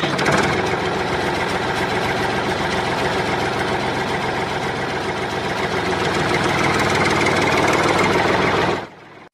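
Small engine running steadily with a fast, even chugging, then cutting off suddenly near the end.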